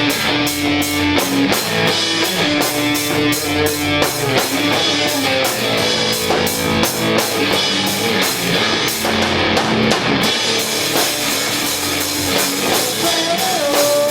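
Rock band playing live: electric guitar over a drum kit, with a steady run of cymbal strokes that eases off about ten seconds in.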